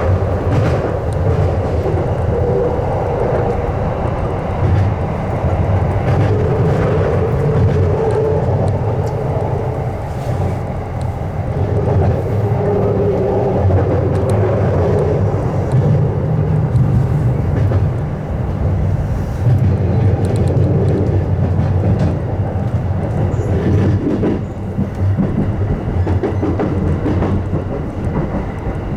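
Electric commuter train running at speed, heard from aboard: a steady low rumble of the wheels on the rails with faint clicks over rail joints and a drifting motor whine rising and falling now and then.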